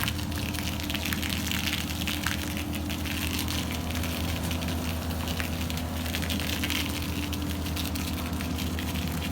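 Foaming shampoo sprayer running: a pump hums steadily under a fizzing, crackling hiss as car-shampoo foam sprays out of the nozzle.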